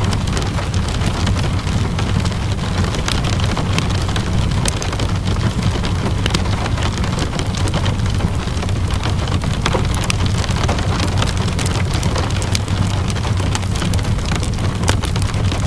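Steady rainfall mixed with a crackling wood fire: a constant low rumble and hiss, with sharp pops scattered through it.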